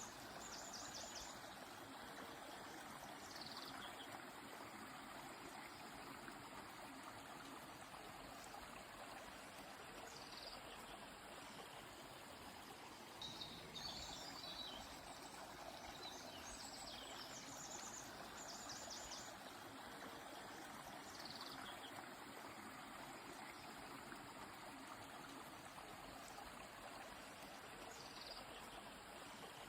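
Steady rush of a flowing river, with short high bird chirps and calls breaking in every few seconds, a few of them in quick runs.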